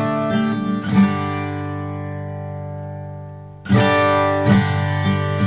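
Background music on acoustic guitar: plucked and strummed chords, with one chord left ringing and fading for a couple of seconds before the strumming picks up again about two-thirds of the way through.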